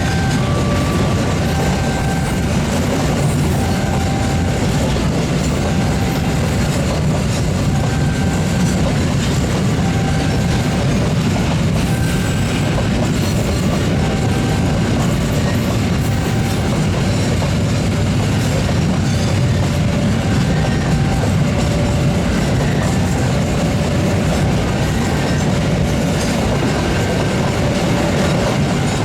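A long Indonesian train running past steadily, wheels rumbling and clacking over the rail joints. A repeating two-note electronic chime sounds over it every second or two.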